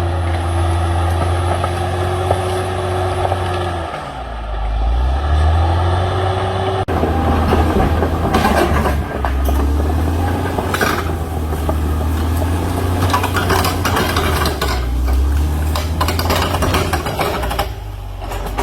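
CAT D6R XL bulldozer's diesel engine running under load. Its revs sag about four seconds in and then recover. After about seven seconds a dense clatter of cracks and knocks joins the engine.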